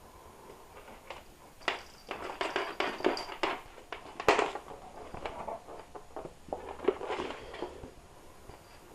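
Ragdoll kittens playing: an irregular patter of small knocks, taps and scuffles, with one sharper knock about four seconds in.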